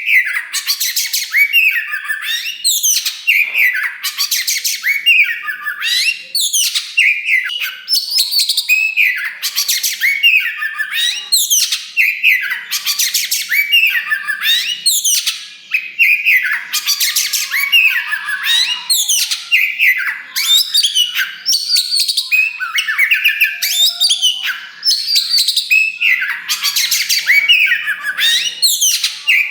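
Oriental magpie-robin (kacer wulung, the black form) singing loudly and without pause: a rapid, varied stream of sweeping whistled notes mixed with harsh, buzzy rasping phrases.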